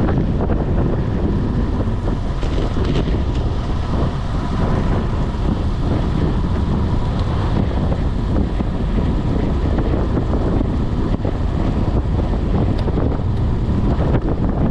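Heavy wind buffeting the microphone of a camera riding on a moving bicycle: a steady, loud low rumble with hiss above it.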